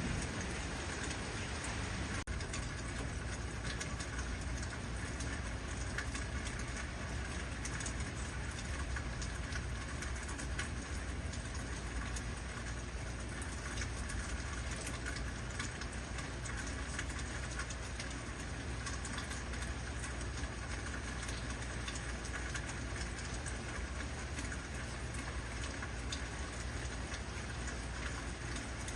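Steady heavy rain, a dense even hiss of drops striking surfaces, with a low rumble underneath.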